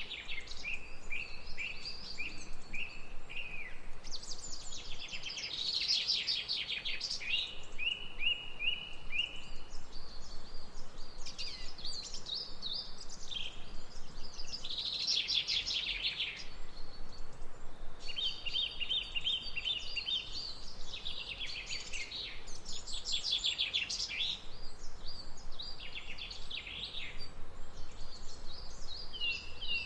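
Songbirds singing: one quick chirping and trilling phrase after another, with short pauses between phrases, over a faint steady outdoor background.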